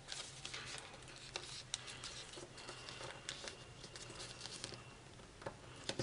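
Faint crinkling and small scattered ticks of a sheet of foil origami paper being handled and creased.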